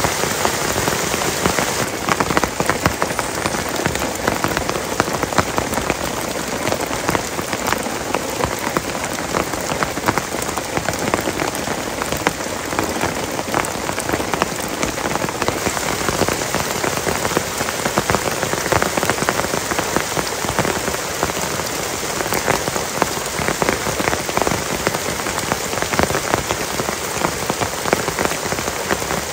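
Heavy rain falling steadily on a tent and the forest around it, a dense unbroken patter of drops.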